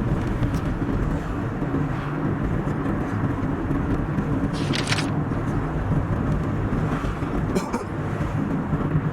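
Steady road and engine noise from a car driving on a highway, a continuous low rumble. A brief hiss comes about five seconds in and a shorter one near the end.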